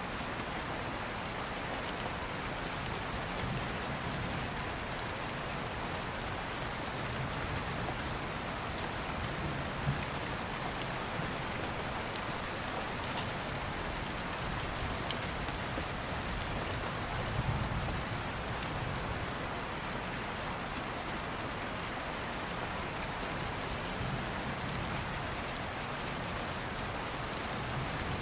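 Steady rain falling on a surface, an even hiss with a few sharp ticks. Soft low rumbles swell a few times underneath, like distant thunder.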